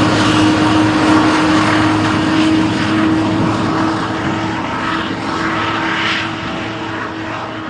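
Diesel freight trains passing close by: a steady locomotive engine drone over the rumble of the cars, slowly fading toward the end.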